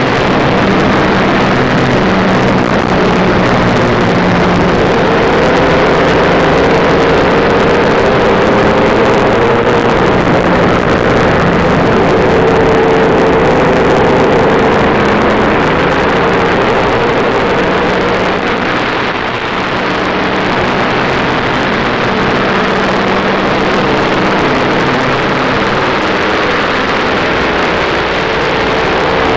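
Race car's engine running hard at a steady pace, heard from inside the car with a dense rush of wind and road noise over it. It eases off briefly about two-thirds of the way through, then pulls steadily again.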